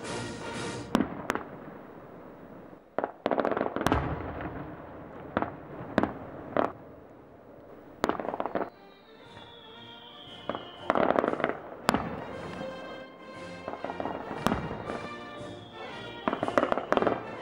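Aerial fireworks bursting with sharp bangs at irregular intervals, over music. Twice a whistle falls in pitch and ends in a loud burst with crackle, about nine seconds in and again near the end.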